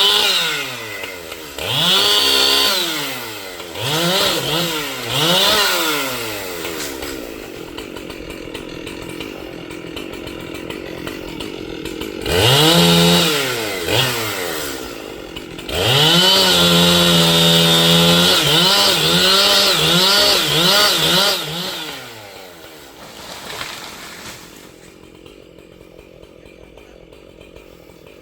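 Large two-stroke chainsaw being revved in short bursts, idling between them. About 16 seconds in it is held at high revs for several seconds, then drops back and dies away near the end.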